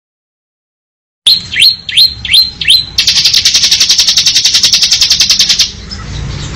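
Bar-winged prinia (ciblek) singing after about a second of dead silence: five quick, high notes, each sliding down in pitch, then a fast rattling trill, the 'ngebren' song, that stops abruptly near the end.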